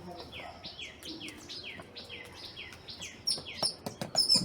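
Small birds chirping: a quick series of short, high chirps, each sweeping downward, about three a second, with a few sharp clicks or taps near the end.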